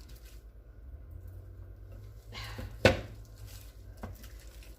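Handling sounds from seasoning a roast with gloved hands: a short rustle, then one sharp click a little past halfway, over a steady low hum.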